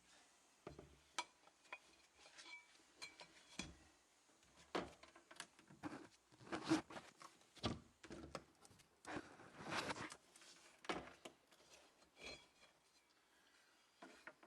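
Irregular light clinks, knocks and short scrapes of metal parts being handled and set down.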